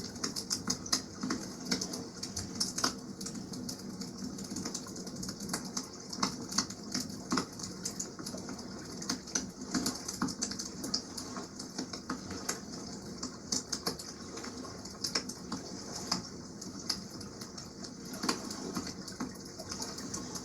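Wood campfire crackling, with irregular sharp pops and snaps over a steady wash of water.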